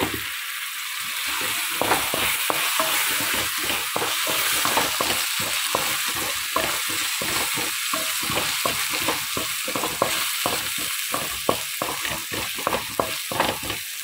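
Onion and tomato masala sizzling in hot oil in a kadai while a spatula stirs and scrapes it, about three strokes a second over a steady sizzle.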